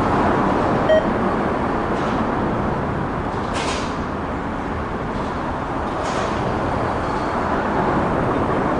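Freight train rolling past, a steady rumbling noise with two short hisses, the first about three and a half seconds in and the second about six seconds in.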